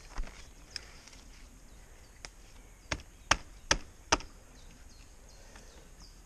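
Several sharp clicks or knocks, four of them in quick succession around the middle, over faint outdoor background noise with small high chirps.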